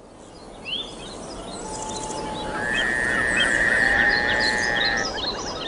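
A chorus of birds chirping and whistling over a steady hiss, with one long trilled note held for about two and a half seconds in the middle.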